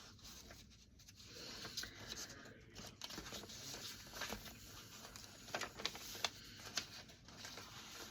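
Faint rustling and soft clicks of paper pages, tags and fabric being handled and turned in a handmade junk journal.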